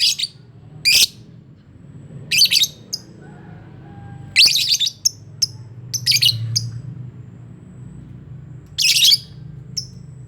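A colony of lovebirds calling: short, shrill, harsh chirps and squawks, one or two at a time every second or so, with pauses between, over a low steady hum.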